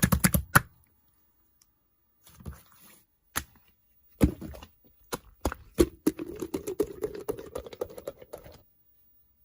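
Computer keyboard typing: a fast run of key clicks at the start, a few scattered key presses, then a longer stretch of quick clattering typing from about six seconds in.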